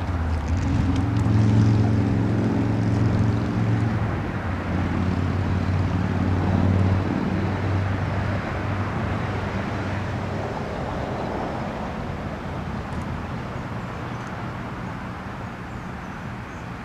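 Union Pacific diesel locomotives running past in a light engine move, a low steady engine drone that fades as they move away, leaving a wash of track and wind noise.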